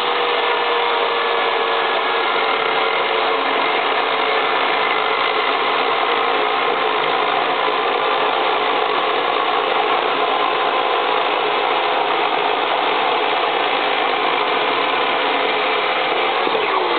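Cheap chainsaw running steadily at high speed, with its pitch sagging briefly near the end.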